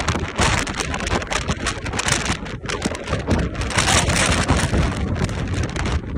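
Strong mountain-top wind gusting hard against the microphone, a loud, constant buffeting with rapid, irregular crackles and thumps.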